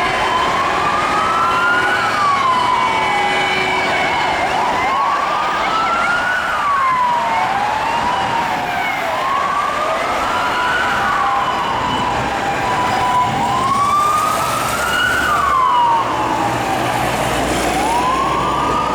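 Sirens of two fire engines on an emergency run, wailing in slow rising and falling sweeps about every four seconds, the two sirens overlapping out of step, over steady traffic noise.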